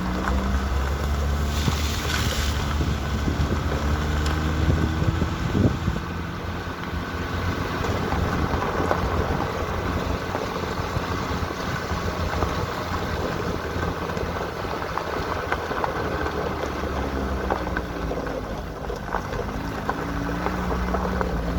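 Vehicle engine running while driving, its pitch rising and falling with changes in speed, over steady rumbling noise.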